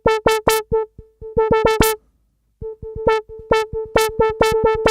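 Dave Smith Tempest analog drum machine playing one pitched synth-drum sound struck repeatedly from its pad, in quick rolls with a pause about two seconds in. Harder hits come out bright and full of upper overtones and softer hits muffled, because velocity opens and closes the filter.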